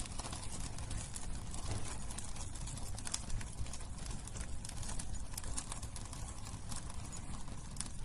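Firewood bonfire burning: irregular crackles and small pops from the burning wood over a steady low rumble of the flames.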